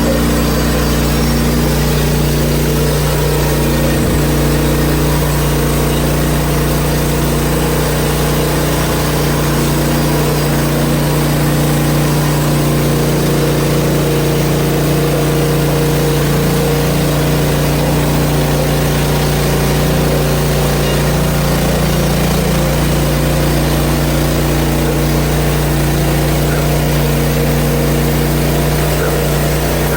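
Portable band sawmill's gasoline engine running at a steady speed while the band blade saws through a maple log. The pitch holds nearly constant throughout.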